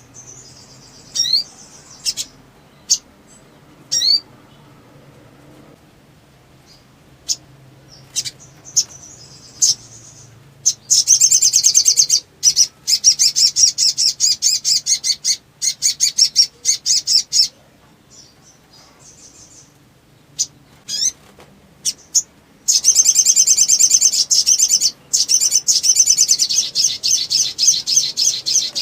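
Sunbird calling: a few sharp, high single chirps, then two long, fast, high trills of about six seconds each.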